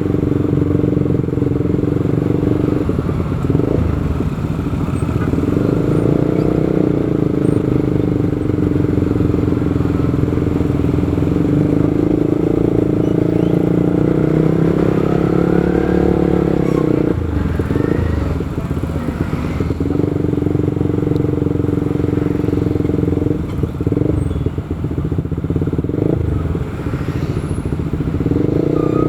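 Motorcycle engine running while riding in city traffic, its pitch rising and falling with the throttle, under a steady heavy rush of road and wind noise.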